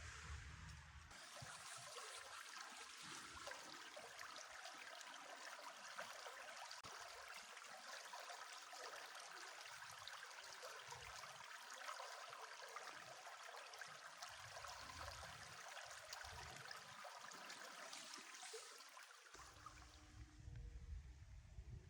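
Faint, steady rush of a flowing winter river. It sets in about a second in and gives way to a low rumble near the end.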